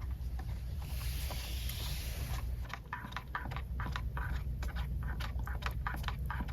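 Strong wind rumbling on the microphone, with a run of quick crackling clicks in the second half.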